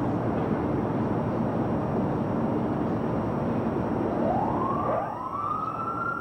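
Steady outdoor background noise, then about four seconds in a warning siren winds up in a rising wail and holds its pitch: the 15-second warning before the building's implosion.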